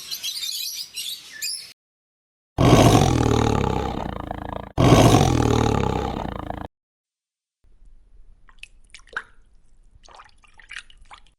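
A large animal calling loudly twice, each deep call about two seconds long and fading out, after high chirping that stops suddenly; faint scattered clicks follow near the end.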